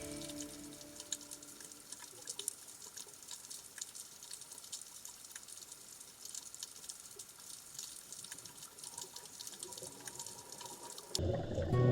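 Faint underwater ambience: a steady crackle of scattered small clicks as heard through a camera's underwater housing. Background music fades out at the start and a new piece of music starts loudly about 11 seconds in.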